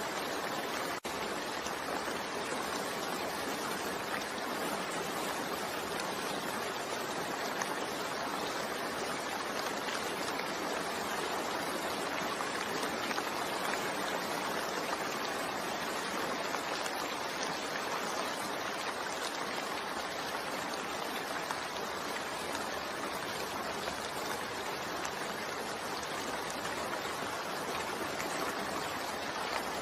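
Steady, continuous rainfall, an even hiss of rain with no distinct drops standing out, and a momentary drop in level about a second in.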